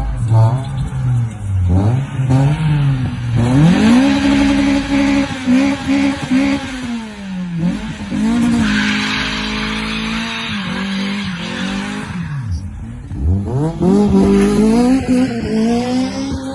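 Car engine revved hard three times, each time climbing to high revs, holding there, then dropping back. During the middle hold there is a screech of spinning tyres.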